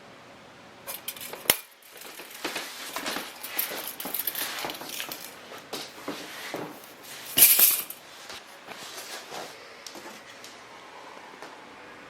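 Hard objects being handled: an irregular run of clatters and knocks, a sharp knock about a second and a half in and the loudest clatter about seven and a half seconds in, over a steady faint hiss.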